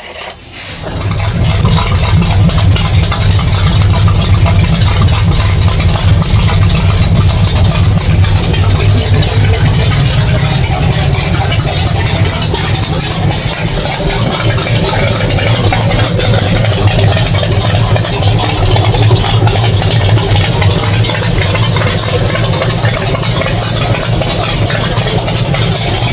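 1997 SN95 Mustang engine starting up about a second in, then idling steadily and loudly through its new 3-inch exhaust.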